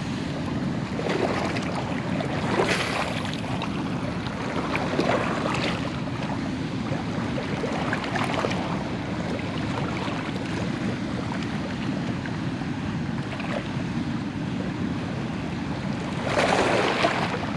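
Steady rush of moving water with wind buffeting the microphone, and a brief louder surge about a second before the end.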